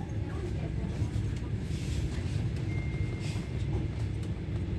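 Steady low rumble of a passenger train in motion, heard from inside the carriage, with a brief thin high tone near the middle.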